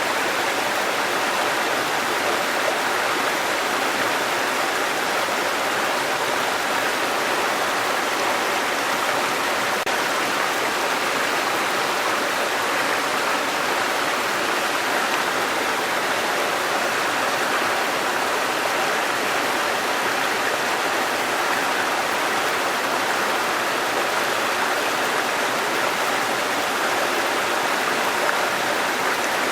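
Waterfall with running water rushing steadily and evenly.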